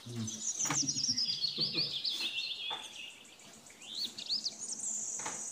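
Songbird singing: a rapid warbling phrase that falls in pitch over the first couple of seconds, a few short rising chirps, then a high thin trill near the end. A few light clicks sound under it.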